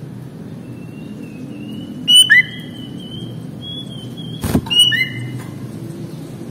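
Sooty-headed bulbul calling: two short, loud chirping phrases, one about two seconds in and one about five seconds in, over a thin, steady high whistle. A sharp click just before the second phrase.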